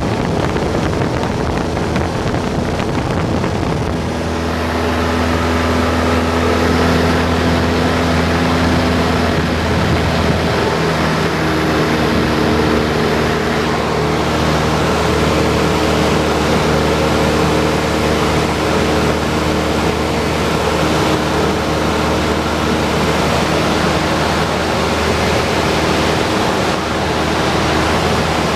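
Cessna 172's piston engine and propeller droning steadily in flight, with a rush of air noise. The engine's pitch shifts about four seconds in and again about ten seconds in.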